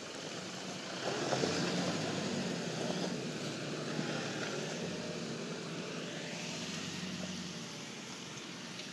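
A four-wheel drive's engine, apparently a Nissan Patrol's, running under load as the vehicle crawls over rocks. It picks up about a second in and eases off gradually toward the end.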